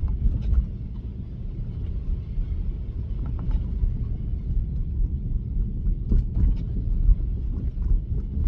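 Steady low rumble of tyre and road noise inside a Tesla's cabin as it drives on a snow-covered road, with a few faint ticks.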